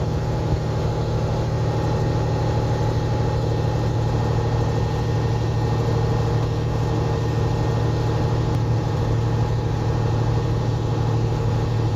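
Semi truck's diesel engine running steadily while driving, a constant low drone heard from inside the cab.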